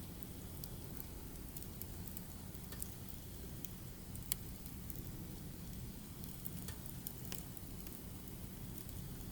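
Burning firewood crackling and popping over a steady low rumble of the fire, with one sharper pop a little after the middle.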